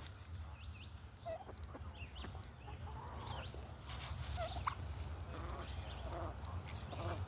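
Birds calling in short, scattered chirps and clucking notes over a steady low rumble.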